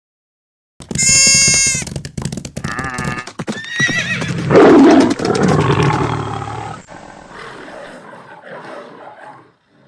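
A montage of animal call sound effects: silence, then a loud high call with many overtones about a second in, several shorter calls, and a louder, lower rough call in the middle. It tails off into a fainter mixed clatter that fades out near the end.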